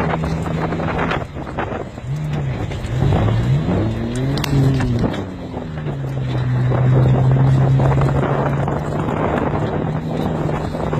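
Race car engine running at a steady pitch, easing off about a second in, then revving up and falling back down over a few seconds before settling into a steady drone again.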